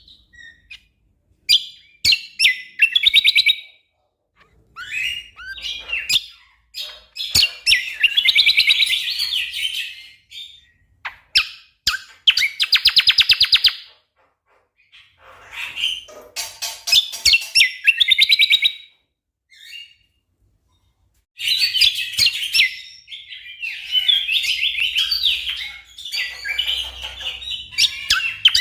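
Cucak kombo (kecial kombok) songbird singing in "gacor" form: phrases of rapid-fire chattering trills and sharp chips, broken by pauses of about a second. The song is dense, fast "tembakan" (shooting) bursts, the kind used as a tutor recording for competition songbirds.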